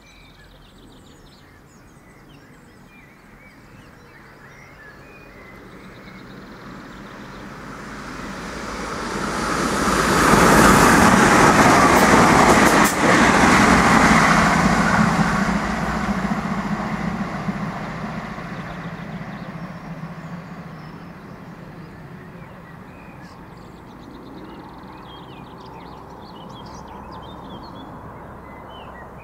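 Irish Rail 22000 class diesel multiple unit passing through a station at speed. The rumble of its wheels and diesel engines swells, peaks about ten to fifteen seconds in, then fades away down the line.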